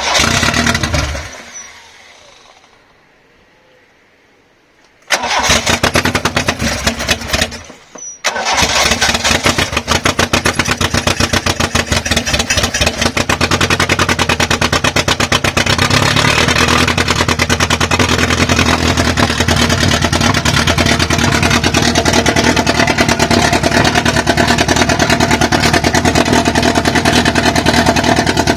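Toyota 2E 1.3-litre four-cylinder engine with twin Weber DCOE 40 carburettors and a 292 cam being started: it fires briefly and dies at the start, catches about five seconds in, stumbles and nearly stalls around eight seconds, then picks up and runs steadily and loud. The engine is freshly built and not yet tuned.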